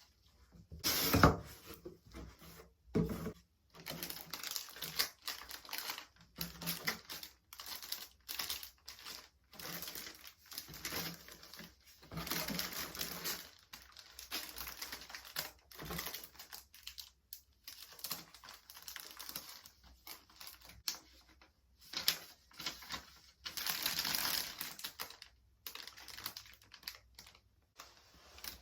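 Packaging being unwrapped and handled: plastic crinkling and rustling in irregular bursts, with many small clicks and taps.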